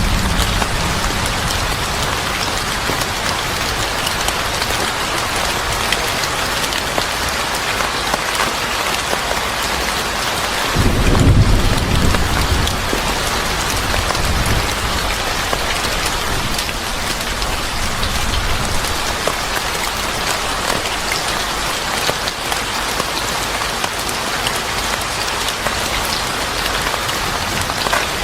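Steady heavy rain falling, a dense even hiss. About eleven seconds in a low rumble swells briefly and fades.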